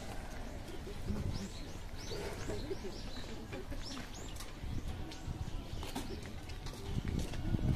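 Small birds chirping in the trees: a quick run of short, high calls through the first half, over park background noise, with a few low thumps near the end.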